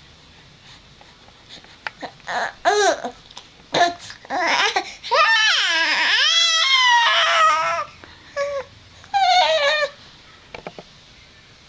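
A 4-month-old baby squealing in high-pitched bursts, with one long squeal swooping up and down in pitch about five seconds in.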